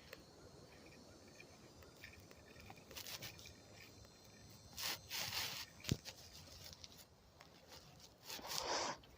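Several short rustling, scraping handling noises close to the microphone, the loudest about halfway through and near the end, with a sharp click just before the middle. Insects keep up a faint high chirring underneath.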